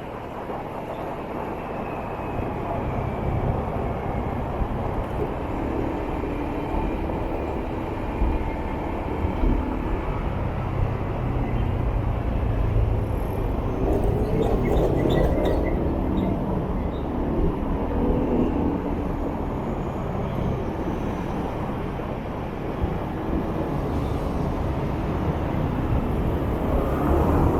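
Motorbike riding through city traffic: a steady rumble of engine, tyres and wind on the microphone.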